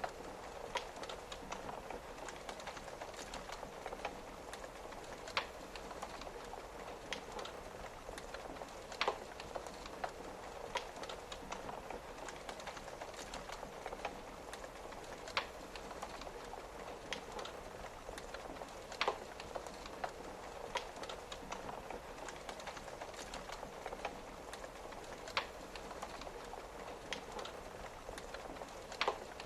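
Wood fire crackling with irregular sharp pops, a few loud ones standing out, over a steady hiss of rain falling on a window.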